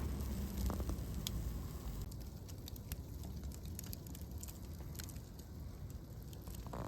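Campfire crackling, with scattered sharp pops over a low steady rumble.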